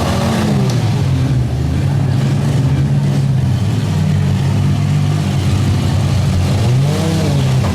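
Demolition-derby minivans, pickups and SUVs with their engines running and revving, the pitch rising and falling as they accelerate and back off.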